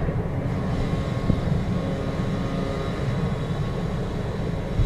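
Steady low drone of a coastal bulk carrier's machinery running while the ship is moored, with a faint constant hum above it.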